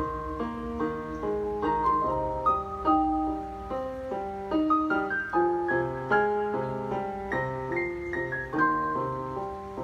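Piano music: a flowing melody of single notes over lower accompanying notes and a bass line, played at a moderate, even pace.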